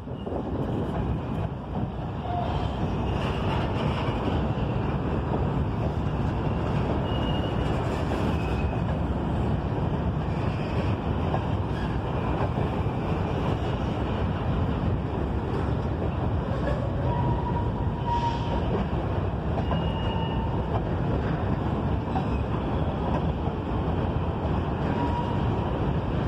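Freight train of covered hopper cars rolling past, a steady rumble of steel wheels on rail, with short high squeals now and then.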